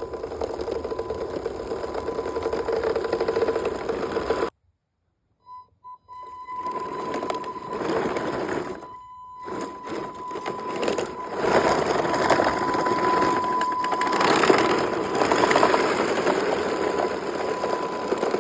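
Radio-controlled 3D-printed tracked dump truck driving: its brushed 550-size electric motors whine through a belt drive while the printed tracks rattle rapidly. It stops dead about a quarter of the way in, gives two short blips of throttle, then drives on with the speed rising and falling.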